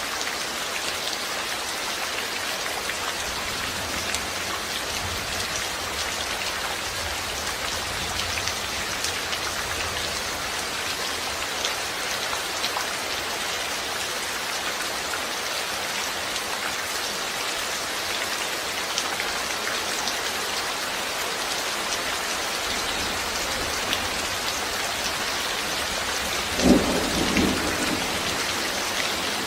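Steady rain falling on a surface, with a sudden short clap of thunder near the end, followed by a weaker rumble.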